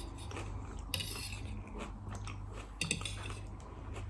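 Close-miked biting and chewing of crisp salad, with crunches about a second in and again near three seconds.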